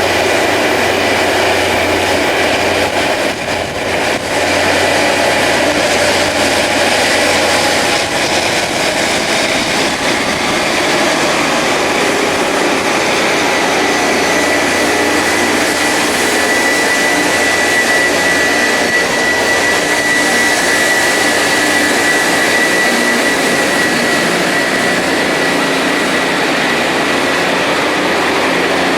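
Rail grinding machine working the track: a loud, steady roar of grinding wheels on the steel railhead mixed with engine noise, with a thin high whine coming through about halfway in.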